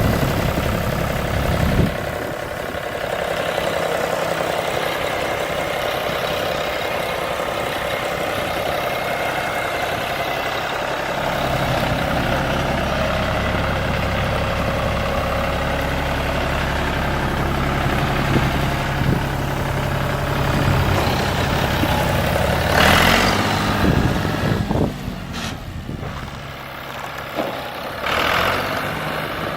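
John Deere 5400 tractor's diesel engine running steadily, its note shifting about a third of the way through. Near the end a brief loud rushing noise passes over it, and the engine sound then drops lower for a few seconds.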